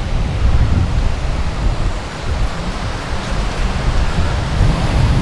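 Wind buffeting the microphone in uneven gusts, over the steady wash of waves on the beach.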